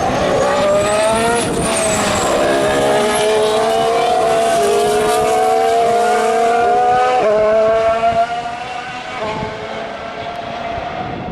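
2014 Formula One car's 1.6-litre turbocharged V6 accelerating hard, its pitch climbing and stepping at each upshift, three times, then falling away in level after about eight seconds.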